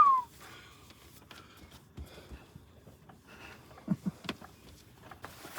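A whistled note falling away at the very start, then faint scattered clicks, knocks and rustles, with two short low thuds and a click about four seconds in.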